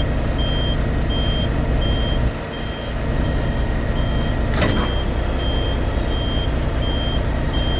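Volvo FM 460 truck's diesel engine running with a warning beeper sounding steadily, about one and a half beeps a second. The engine drone dips briefly a couple of seconds in, and there is one sharp click near the middle.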